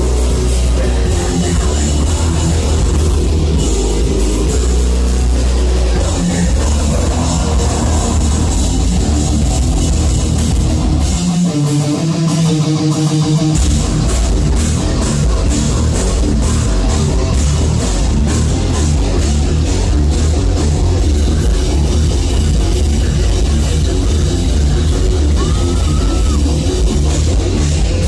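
Live heavy metal band playing loud, with distorted guitars and a drum kit. About halfway through, the drums and low end drop out for two seconds, leaving a guitar riff on its own before the full band crashes back in.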